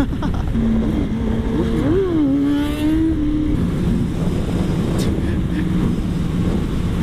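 Kawasaki ZX-6R's inline-four engine running, its pitch climbing and then dropping about two seconds in before it settles lower and steady. A heavy low wind rumble on the microphone runs underneath.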